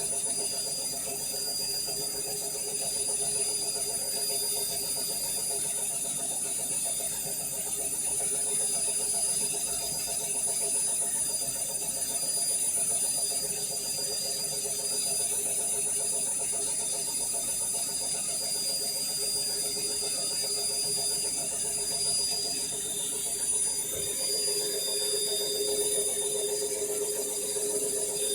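Indesit My Time washing machine running steadily, a continuous motor whine with high steady tones, the 450 Hz note growing stronger near the end.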